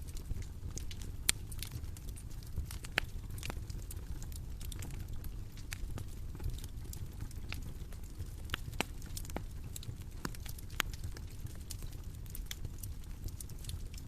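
Bonfire crackling: irregular sharp pops and snaps over a low, steady rumble of the burning fire.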